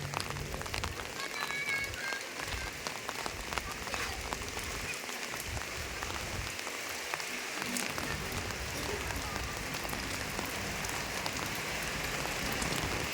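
Steady rain falling, with many separate drops ticking on a hard surface.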